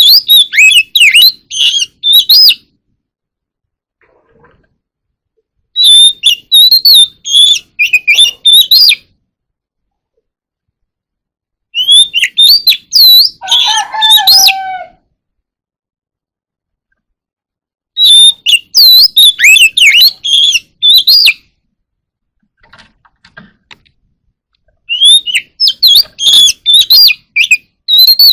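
Oriental magpie-robin singing: five loud phrases of quick, varied whistled notes, each about three seconds long, with pauses of about three seconds between them.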